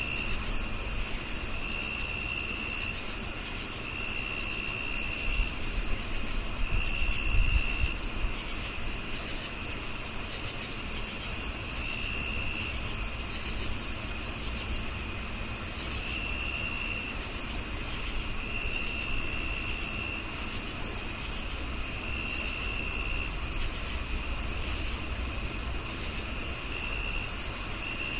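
Several crickets calling together: one chirping steadily about three times a second, a continuous high-pitched trill underneath, and another giving lower trills about a second long every couple of seconds. A brief low rumble rises about seven seconds in.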